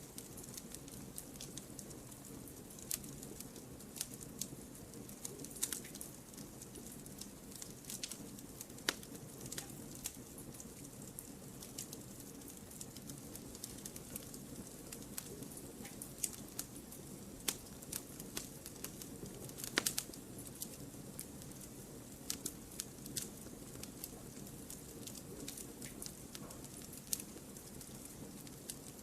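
Wood fire burning in a fireplace: irregular crackles and sharp pops over a steady low rumble, with the loudest pop about two-thirds of the way through.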